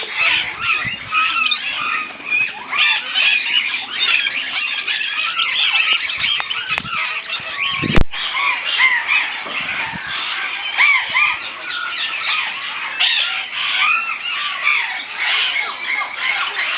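A dense chorus of parrots squawking and chattering, many calls overlapping throughout. A single sharp click about halfway through is the loudest sound.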